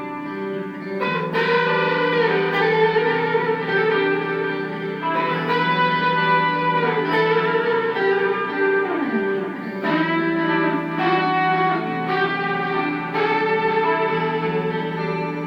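Electric guitar through a Boss ME-25 multi-effects unit on a crunch patch, playing a lead melody with string bends and a long slide down about nine seconds in.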